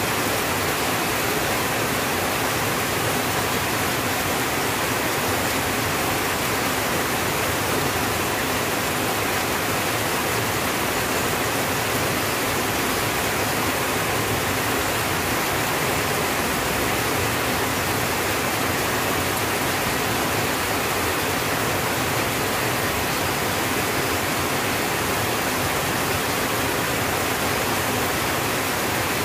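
Rain falling steadily on a tin roof, a dense, even hiss that holds level throughout.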